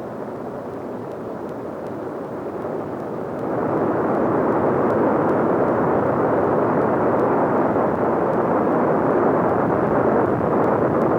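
Kilauea lava fountain erupting: a steady, dense rushing noise that grows louder about three and a half seconds in.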